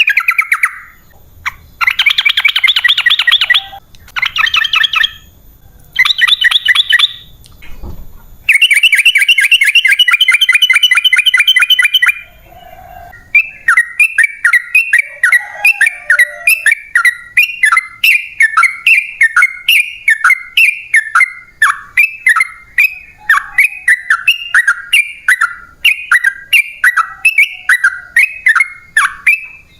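Yellow-vented bulbul (trucukan) song: several fast, chattering trill bursts in the first twelve seconds, then a long unbroken run of quick repeated downslurred notes, the long rapid-fire 'ropel panjang' style.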